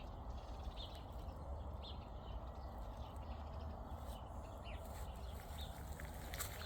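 Outdoor nature ambience: a steady low rumble with short, high, falling chirps every second or so, and a few sharp clicks near the end.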